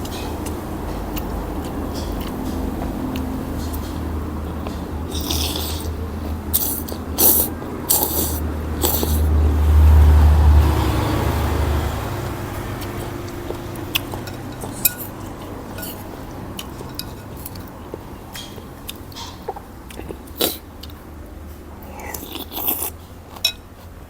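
A person eating a bowl of noodle soup up close to the microphone: chewing, with scattered short clicks and crunches, over a steady low rumble that swells about ten seconds in.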